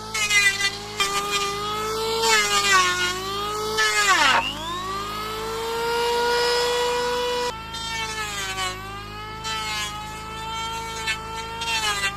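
A power tool's motor running with wavering pitch, as when it is working through material. About four seconds in its pitch drops sharply as it bogs down, then climbs back and holds steady for a few seconds before wavering again.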